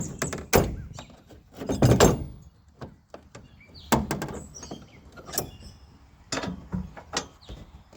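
Irregular knocks and clunks, with the loudest about half a second and two seconds in.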